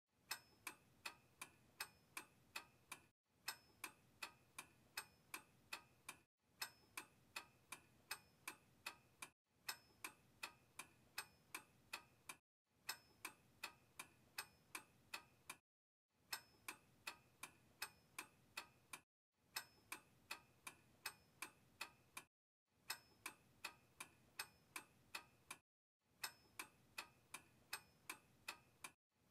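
Clock ticking sound effect, about two to three ticks a second, played as a short loop of about three seconds that repeats with a brief gap of dead silence between each repeat.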